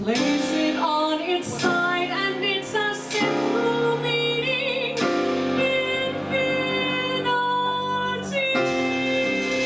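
A woman singing a jazz song over a small jazz combo of piano, bass and drums, moving from note to note, with a wavering vibrato on a held note around the middle.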